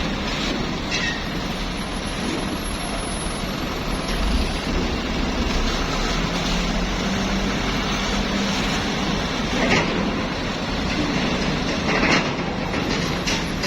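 Steady rumble of a large vehicle on the move, with a low drone underneath and a few short knocks.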